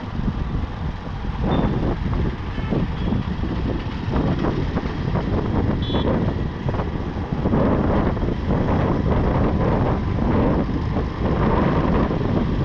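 Wind buffeting the microphone over the rumble of a motorbike and surrounding street traffic, louder in the second half. A short high beep sounds about halfway through.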